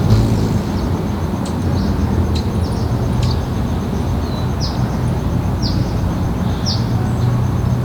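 Short, high bird chirps, roughly once a second, over a loud, steady low rumble.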